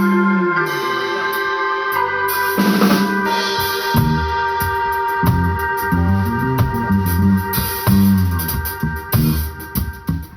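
A live rock band playing. It holds sustained chords for the first few seconds, then the drum kit and a moving bass line come in with a steady beat about four seconds in.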